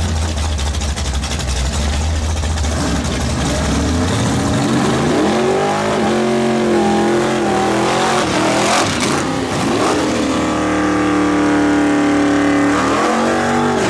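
Drag-racing AMC cars at the start line, idling with a deep rumble, then an engine revving up and down. The purple AMC AMX's engine is held at high revs through a burnout, spinning its rear tyres, before the revs drop near the end.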